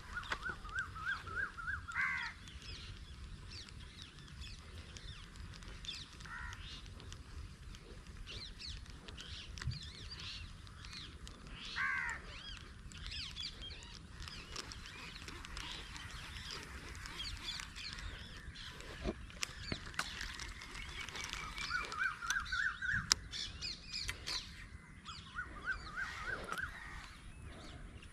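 Birds calling outdoors. One bird repeats a quick run of short notes three times, at the start and twice near the end, while other birds chirp higher throughout.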